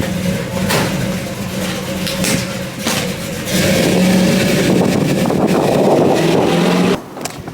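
A steady mechanical hum from a motor, louder from about halfway through, that cuts off suddenly near the end.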